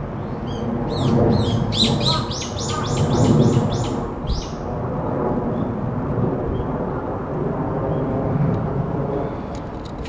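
A songbird calls a quick string of sharp, downward-sweeping notes, about four a second in the faster second half, lasting about four seconds. Under it runs a steady low rumble.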